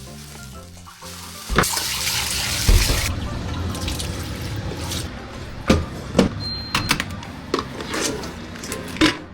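Water running from a tap into a sink, loudest for about a second and a half near the start, then running on more softly. Several sharp knocks and clinks come through it, from things being handled at the sink.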